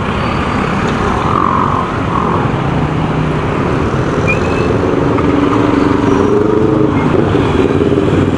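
Motorcycle riding in traffic: steady engine and road noise, with a steadier engine tone coming through about halfway.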